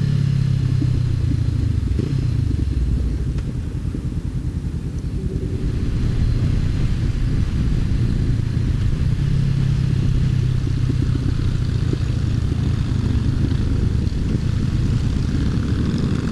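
Honda CBR500R's parallel-twin engine running under way. The engine note drops and the sound eases off about four seconds in, then picks up again about two seconds later and holds steady.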